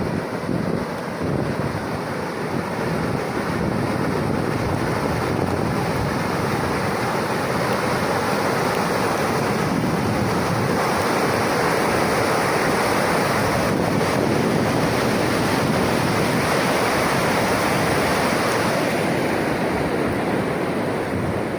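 Rushing floodwater in a flowing torrent after heavy rain: a steady, dense rush of water that grows slightly louder about halfway through, with wind buffeting the microphone.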